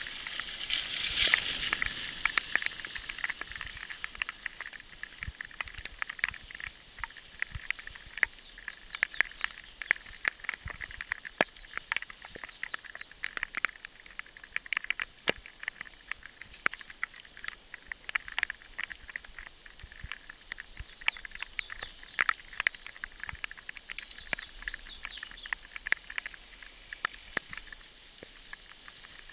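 Bicycle tyres crunching over a gravel road: a steady hiss full of irregular clicks and crackles, loudest in the first couple of seconds and easing off after.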